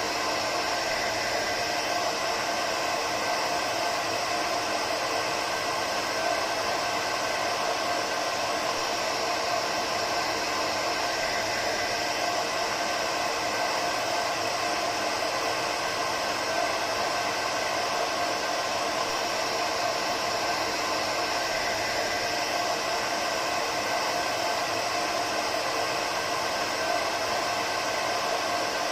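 Hair dryer running continuously at a steady speed: an even rushing hiss of air with a faint motor whine, unchanging throughout.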